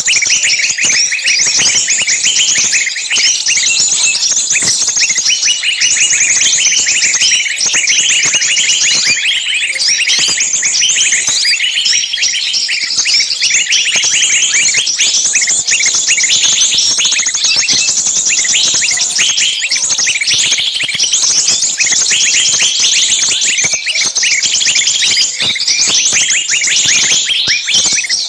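Dense, continuous chirping of many small birds at once, loud and unbroken, with the short high calls overlapping throughout.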